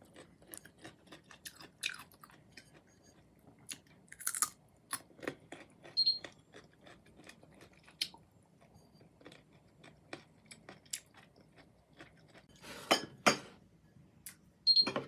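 Close-up chewing and biting of crunchy unripe green mango: irregular crisp crunches, with a few louder bites and two close together near the end.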